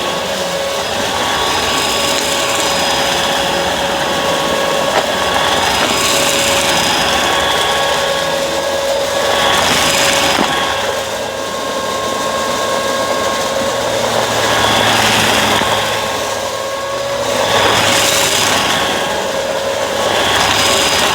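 Bissell vacuum cleaner running, a steady motor whine over rushing air that swells and eases every few seconds.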